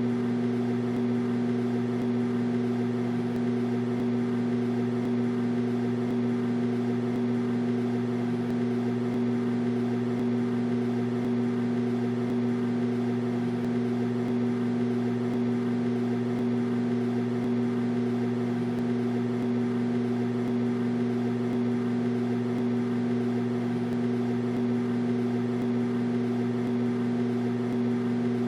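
Microwave oven running: a steady, even hum with overtones that does not change.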